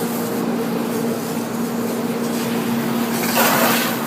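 Steady mechanical hum with a loud, short hiss about three seconds in.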